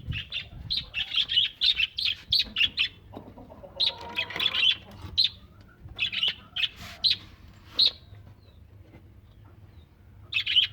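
Caged birds chirping: quick runs of short, high calls through the first eight seconds, quieter for a while, then one more burst near the end.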